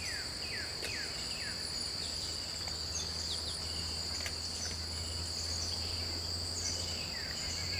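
Steady high-pitched drone of insects, with short falling chirps now and then and a faint low hum underneath.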